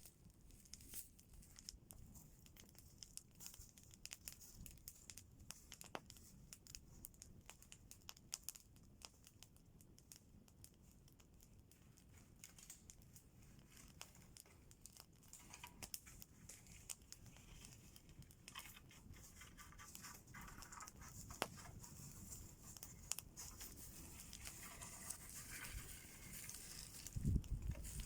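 Faint campfire crackling: scattered small pops and clicks, with rustling that grows in the second half and a low thump near the end.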